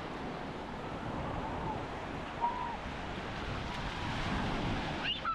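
Gulf of Mexico surf washing onto a sandy beach: a steady rushing of waves, with a brief voice near the end.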